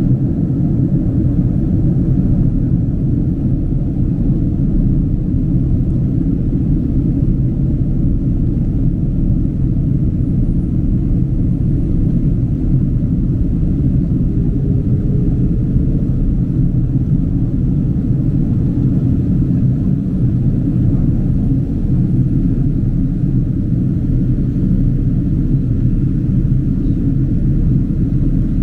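Steady low cabin rumble of a Boeing 767-300 airliner in flight, heard from a seat inside the cabin: engine and airflow noise, even and unbroken.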